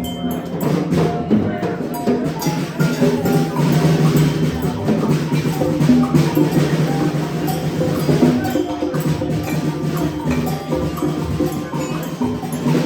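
Assorted small percussion instruments struck and shaken at once: an irregular jumble of wood-block-like knocks and clicks, with short ringing, bell-like tones mixed in.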